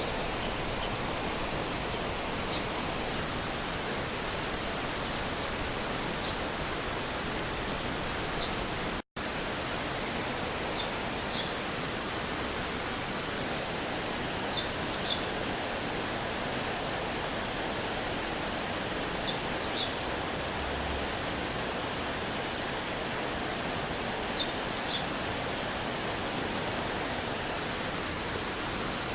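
Stream water running steadily, with a bird's short high chirps, falling in pitch, every few seconds, often in twos or threes. The sound cuts out for an instant about nine seconds in.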